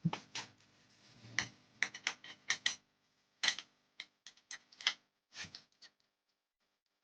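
Irregular light clicks and taps of small metal parts being handled, as in working on a lock pick, coming thick for several seconds and thinning out near the end.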